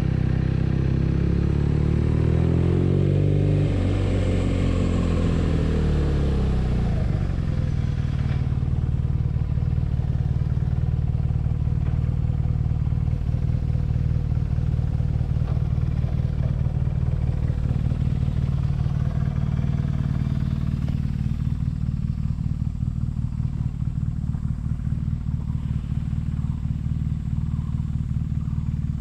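BMW R nineT's air/oil-cooled boxer twin engine. Its pitch rises and falls over the first several seconds as the throttle changes, then it settles into a steady low running beat from about seven seconds in.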